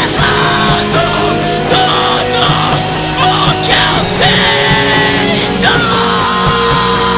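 Screamo/post-rock band playing loud and dense: electric guitars ringing out over steady drums and cymbals.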